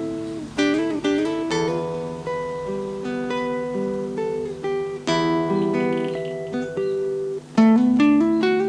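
Acoustic guitar playing, with ringing notes and several chords strummed, the loudest near the end.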